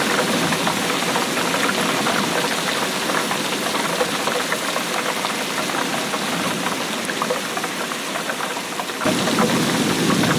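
Steady rainfall: a continuous hiss with many small drop impacts. About nine seconds in the sound shifts abruptly to a fuller, lower rush of rain.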